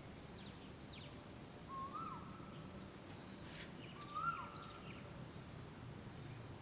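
Birds calling in the morning: two similar short calls, each rising then holding a steady note before dropping off, about two and a half seconds apart, with a few thin, high chirps in between over a steady low background hum.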